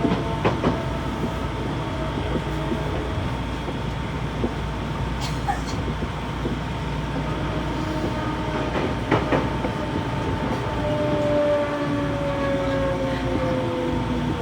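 Odakyu 1000 series electric train heard from inside a motor car: steady running noise with a few wheel clicks over rail joints, and a constant motor tone. Near the end a set of motor tones falls slowly in pitch as the train slows.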